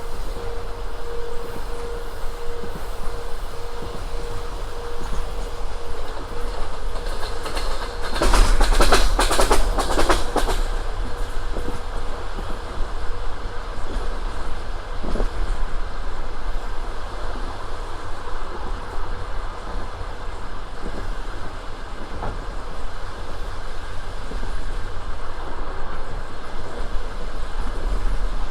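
Passenger train running along the line, heard from aboard: a steady rolling rumble with wheels clattering over the rails. About eight seconds in comes a louder burst of dense rattling and clatter lasting about two seconds.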